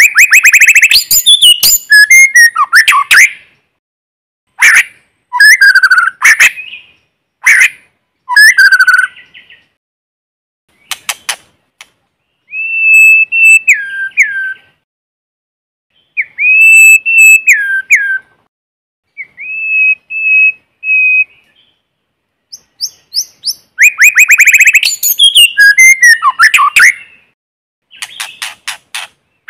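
White-rumped shama singing loud phrases with short pauses between them. Quick chattering notes and rapid clicks alternate with three long clear whistles that hold steady and then drop in pitch.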